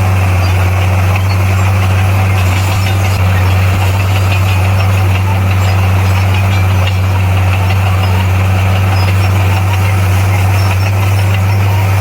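Bulldozer's diesel engine running steadily with a low, unchanging drone.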